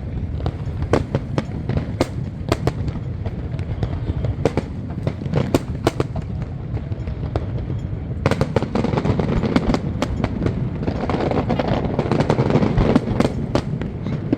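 Fireworks display: a string of sharp bangs from bursting shells over a continuous low rumble, with a dense crackle joining in from about eight seconds in.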